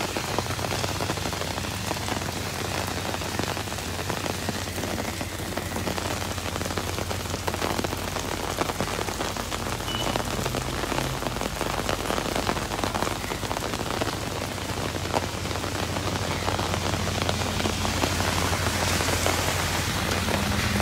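Heavy rain mixed with hail pelting down, a dense, steady patter of countless small hits on the wet street.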